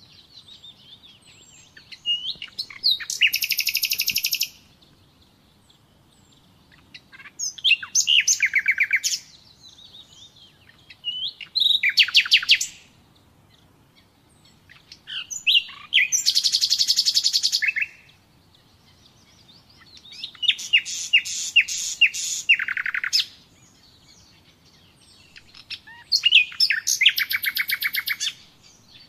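Common nightingale singing: six separate phrases of fast repeated notes and trills, each a second or two long, with pauses of a few seconds between them.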